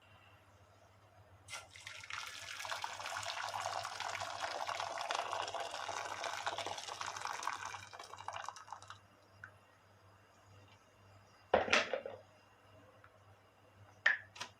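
Kitchen tap running into a sink for about seven seconds, then shut off. A sharp knock follows, then a shorter clack near the end.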